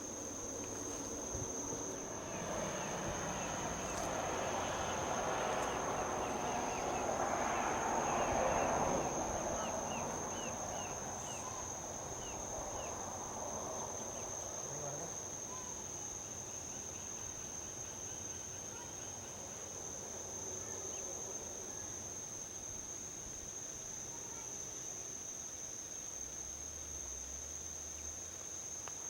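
A steady high insect trill runs throughout. A vehicle passes on the highway, its noise swelling over the first few seconds, peaking about nine seconds in, then fading away, with a few faint short chirps while it passes.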